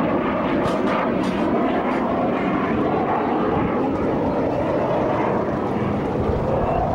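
Jet Provost jet trainer flying its display, its engine giving a steady, loud rushing noise.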